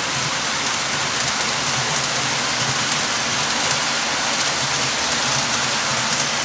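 HO scale model freight train rolling along the track: a steady, even rattling hiss of many small wheels on the rails.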